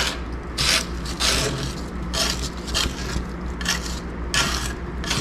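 Repeated scraping strokes, about one every 0.7 seconds, as oil-soaked straw, hay and grass sludge is scraped out of a skid steer's belly pan.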